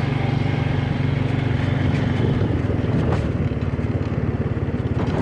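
Honda motorbike's engine running steadily as it is ridden over sand, with a quick, even firing beat; it eases slightly about three seconds in.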